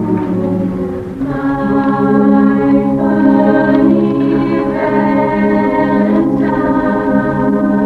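Choir singing sustained chords, the harmony shifting to a new chord every second or two.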